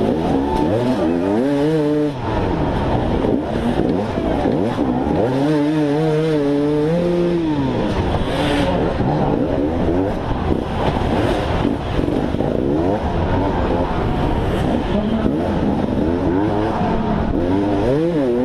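Dirt bike engine revving up and down in repeated throttle bursts, its pitch rising and falling over and over.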